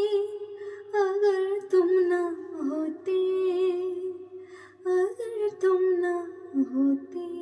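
A woman's voice humming a wordless melodic line with vibrato over musical backing, rising and falling in pitch across several held notes as the song closes.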